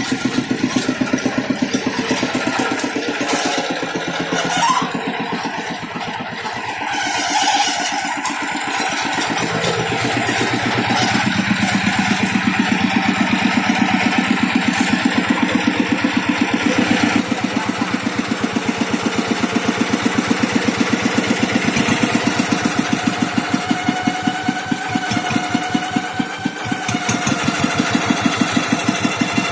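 Tractor engine running under way with a steady, rapid firing beat, changing a little in load and level now and then.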